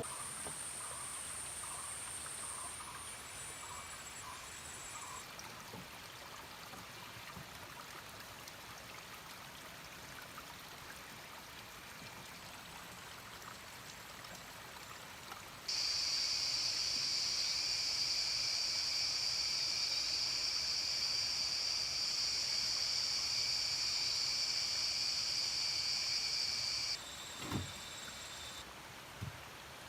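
Steady trickle of running water with faint insect and frog calls. About 16 s in, a loud, high, steady insect buzz starts suddenly and cuts off just as suddenly about 11 s later. A single low knock follows soon after.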